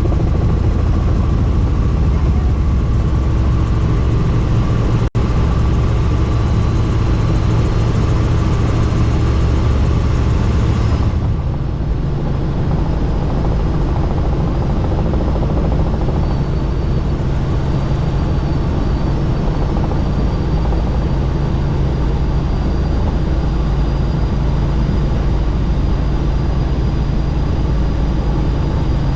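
Helicopter in flight, its rotor and engine giving a loud, steady drone heard from inside the doors-off cabin. The low hum shifts and the hiss softens about eleven seconds in.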